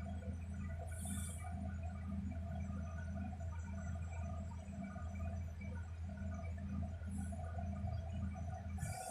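Inside a moving electric bus: a steady low hum from the electric drive and onboard equipment, with faint steady whines above it. Short hisses of compressed air come about a second in and again later, and a longer hiss near the end as the low hum cuts out.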